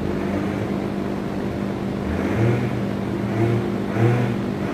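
A steady machine hum, with a few short, lower surges rising over it.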